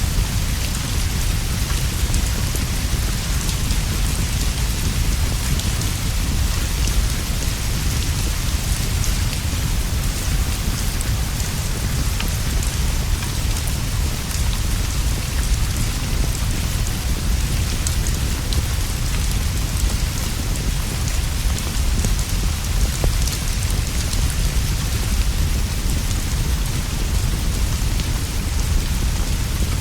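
Steady, even rainfall: a dense hiss with a constant low rumble underneath and faint scattered ticks of drops.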